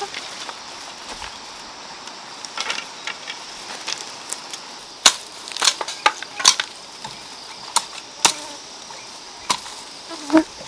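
A series of sharp, irregular snaps or knocks, clustered in the second half, over a steady high insect-like hiss.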